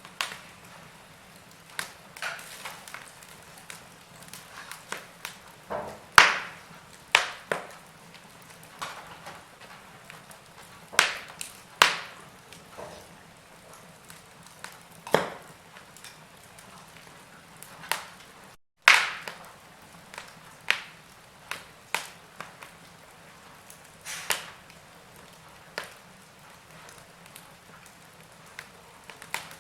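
Wood fire burning in a fireplace, crackling with irregular sharp pops of varying loudness over a faint steady hiss.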